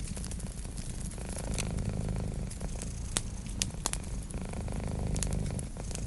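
Cat purring steadily and low, with a wood fire crackling over it in scattered sharp pops, the loudest few about halfway through.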